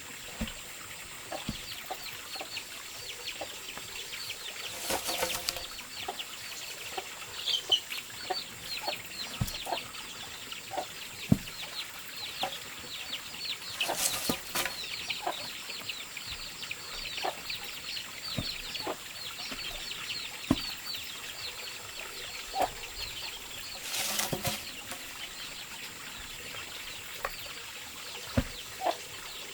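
Birds chirping continuously in short, high, falling notes, with scattered light knocks and three brief noisy rushes about ten seconds apart.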